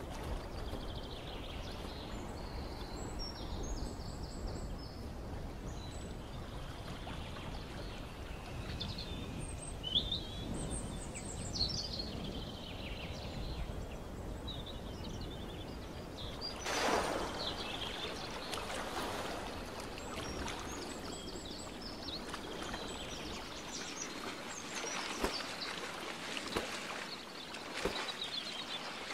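Small birds chirping and calling on and off over a steady outdoor background noise with a low rumble, which fades about four-fifths of the way through. A brief louder rush of noise comes a little past halfway.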